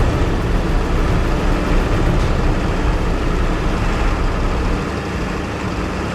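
Motor vehicle engine running steadily with a dense rumble, easing off a little near the end.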